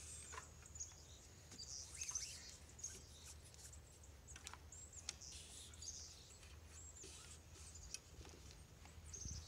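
Near silence with faint, scattered high bird chirps, and a few soft clicks of paracord being wound around a bike's rear rack.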